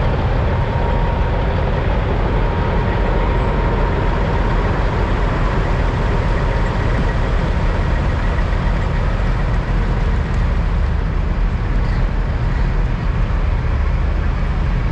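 Diesel semi-truck engines running at a steady idle, a continuous deep rumble.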